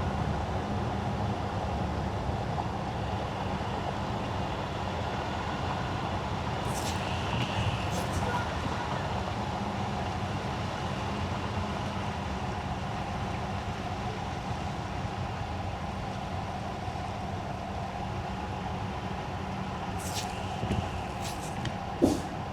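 Car driving on wet winter asphalt: a steady low rumble of tyres and running gear, with a few brief clicks about a third of the way in and again near the end, and one sharp knock just before the end.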